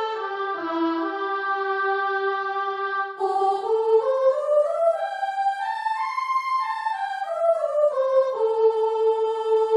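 Yamaha PSR-SX arranger keyboard playing a single-line melody on a sampled solo voice. It runs down the scale, holds a note, runs up and back down, and ends on a long held note.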